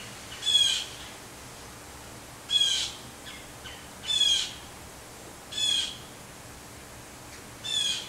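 A bird calling five times, each call short, one and a half to two seconds apart, over a steady hiss.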